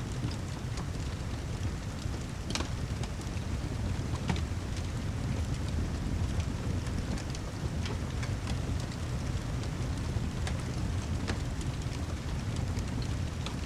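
Steady rain with a deep low rumble underneath, and scattered sharp crackles and pops from a fireplace, a few louder ones standing out.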